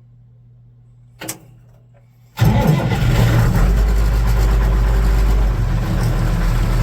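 Allis-Chalmers 200 tractor's diesel engine on a cold start, warmed by being plugged in and with the battery on a charger: a click about a second in, then about two and a half seconds in the engine fires at once and runs on steadily.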